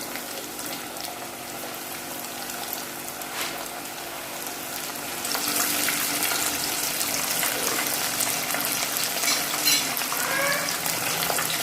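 Coated chicken pieces frying in hot oil in a pan, a steady crackling sizzle that grows louder about five seconds in.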